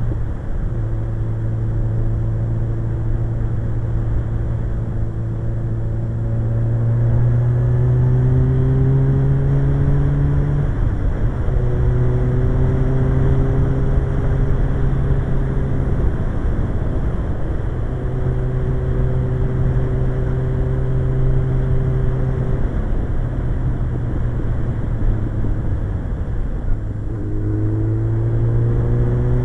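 Suzuki GSX-R1100 inline-four motorcycle engine under way. Its pitch climbs under throttle, then it eases off and holds steady by turns, over a constant rush of wind.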